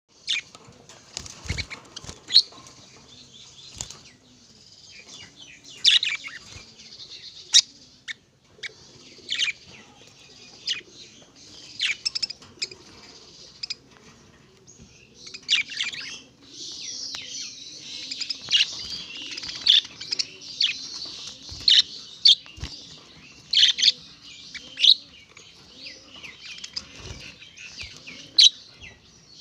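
Tits giving many short, high chirps throughout, with bouts of wing fluttering.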